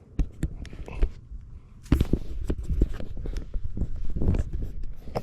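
Irregular knocks and thumps, sparse at first and then denser and louder from about two seconds in.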